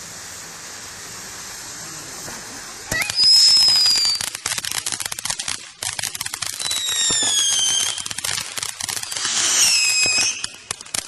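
Consumer fireworks going off about three seconds in with a sharp bang, then dense rapid crackling for several seconds, with a few whistles that fall in pitch.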